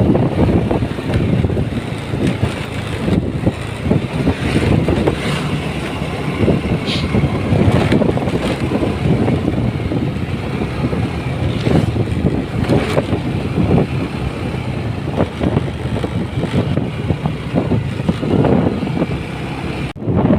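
Motorcycle on the move: engine and road noise carry on loudly and unevenly, with a brief drop near the end.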